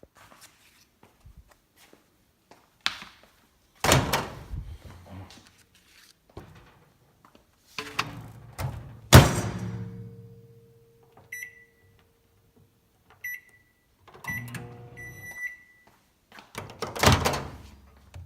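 Microwave oven being handled: the door thunks shut, then several short keypad beeps, the last one held longer, as it is set and started. There are also clunks of handling before and after.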